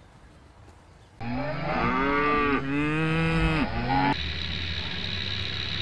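Cattle mooing: two long calls one after the other, starting about a second in and rising and falling in pitch. After them a steady hum with a faint high whine continues.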